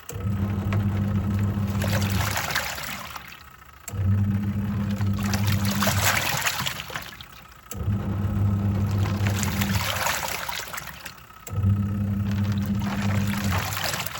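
Twin-tub washing machine's wash tub agitating: the pulsator motor hums for about two seconds, then pauses while the swirling water rushes on and dies away. The cycle repeats about every four seconds, four times, as the pulsator reverses direction.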